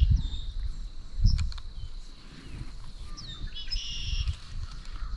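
Birds chirping and calling, short high notes and falling whistles, with a cluster of calls around three to four seconds in, over a faint steady high tone and low rumbling on the microphone.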